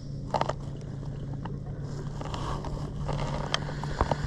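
Boat engine idling with a steady low hum, with a few small clicks and knocks over it.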